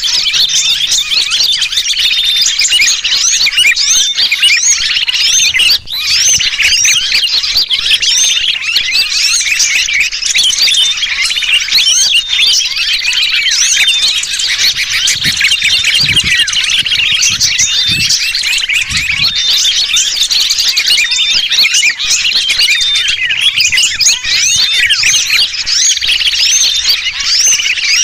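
A dense, continuous chorus of small songbirds chirping and calling noisily, mixed with the distress calls of sooty-headed bulbuls (kutilang), played as a bird-trapping lure recording. Many short, high chirps overlap with no break.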